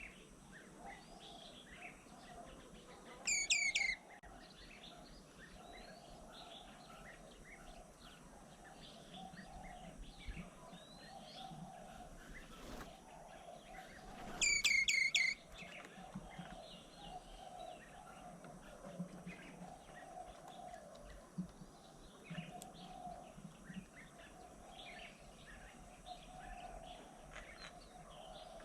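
Wild birds chirping and calling around a garden bird table. Twice, about eleven seconds apart, one bird close by gives a loud call made of a quick run of repeated notes.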